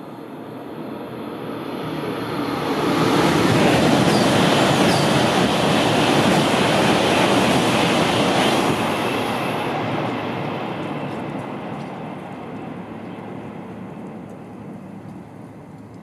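Shinkansen high-speed train passing at speed: a rushing swell of air and wheel-on-rail noise that builds over the first few seconds, is loudest from about three to nine seconds in, then fades steadily as the train recedes.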